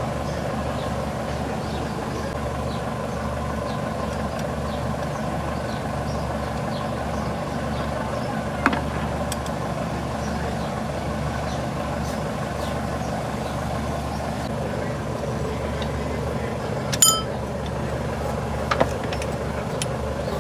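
Toyota Corolla GLi engine idling steadily, running so its noise can be checked; the workshop treats the noise as a tappet clearance problem. A few sharp clicks sound over it, one about nine seconds in and two more near the end.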